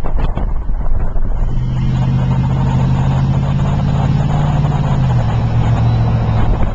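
Truck engine running steadily from about a second and a half in, its note dropping a step a few seconds later, over a low rumble of wind on the microphone at the start.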